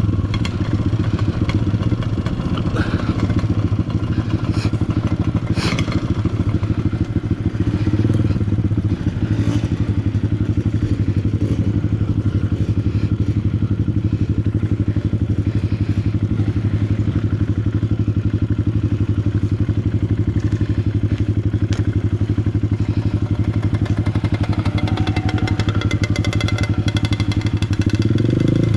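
Honda CRF150L's single-cylinder four-stroke engine running at steady low revs on a dirt trail, with clatter and knocks from the bike going over rough ground. The revs rise near the end.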